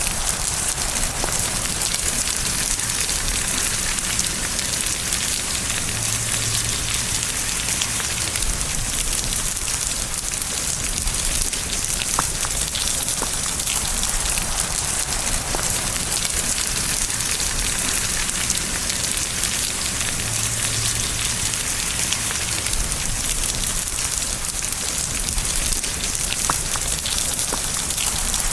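Steady rain with many drops pattering on a surface, a dense even hiss with fine individual drop ticks.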